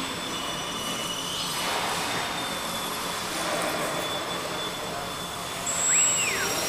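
Small electric RC aircraft motors and propellers whining, several at once at different pitches. One whine rises and falls quickly about six seconds in, the loudest moment.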